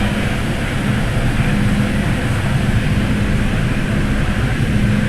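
MTR M-Train running on the Tsuen Wan Line: a steady, loud rumble of wheels on rail with a low hum that fades in and out.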